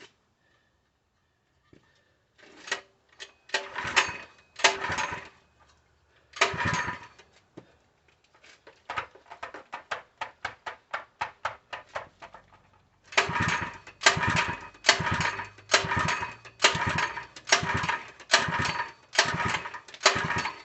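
Harbor Freight 3 HP small gas engine being pull-started again and again without catching. There are a few rope pulls, then a run of quick ticks slowing down as the engine coasts, then a steady series of short pulls less than a second apart. The engine won't start, which the owner puts down to a fuel delivery problem.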